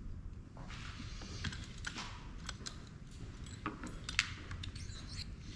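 Irregular light clicks and taps of small plastic and metal printer parts being handled and pried apart during disassembly, the sharpest one a little past four seconds in.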